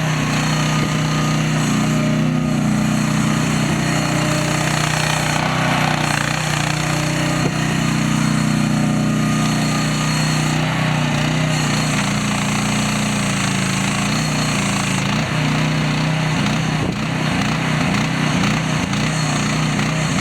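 Mini excavator's small engine running steadily at a constant speed.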